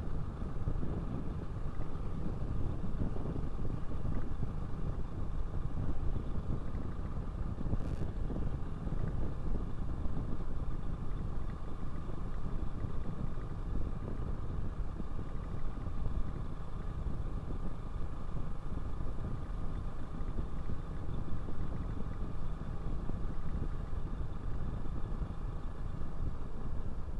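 Motorcycle engine running steadily while riding, with a continuous low rumble of engine and road noise and a faint steady whine. A single brief click about eight seconds in.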